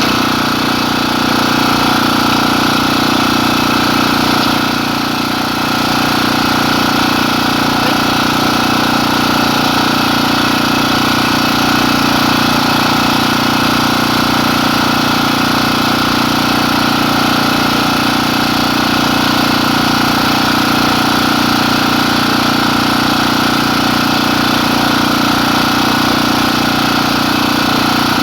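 An engine running at a steady idle, loud and unchanging throughout, with a brief slight dip in level about five seconds in.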